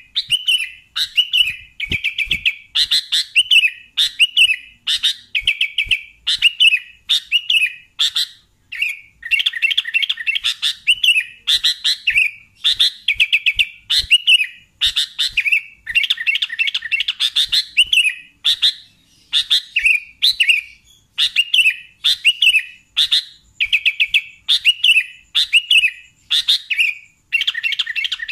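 Sooty-headed bulbul (kutilang) singing continuously and energetically: short phrases of quick repeated notes, roughly one phrase a second, separated by brief gaps.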